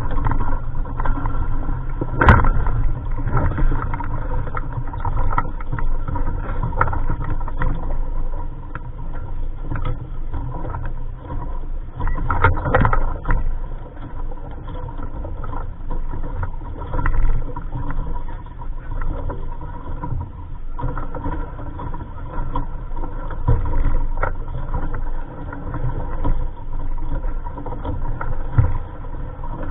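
Steady wind rumbling on the microphone, with scattered knocks and clatters. The clearest comes about two seconds in, and a cluster follows around twelve to thirteen seconds.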